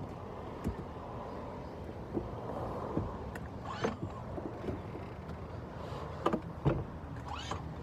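Steady low background noise with a few faint, short clicks and knocks scattered through it.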